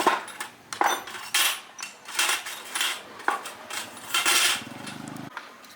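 Metal tools and machine parts clinking, knocking and scraping in a quick irregular string. A brief low mechanical hum sounds near the end and cuts off suddenly.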